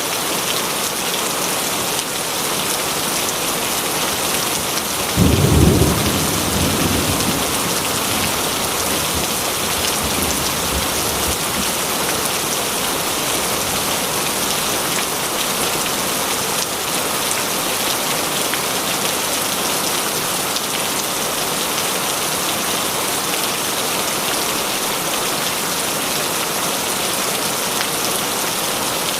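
Heavy rain falling in a steady hiss, with a clap of thunder about five seconds in that rumbles away over the next several seconds.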